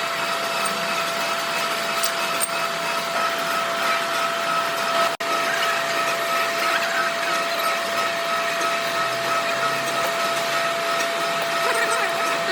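Workshop machinery running steadily: an even hiss with a constant whine, cut off for an instant about five seconds in.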